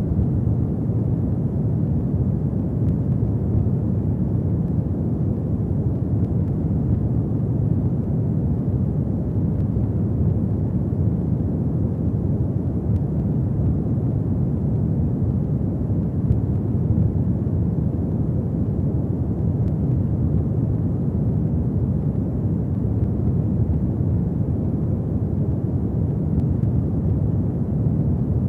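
Wood fire burning in a fireplace: a steady low rumble of flames with a few faint crackles and pops.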